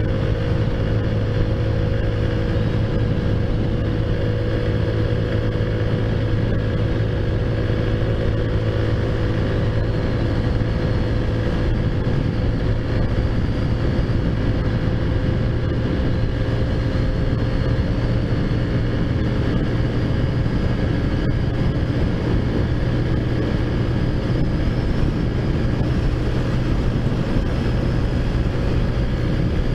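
Taotao Zummer scooter's modified 50cc four-stroke engine running at a steady cruise, its pitch holding nearly constant.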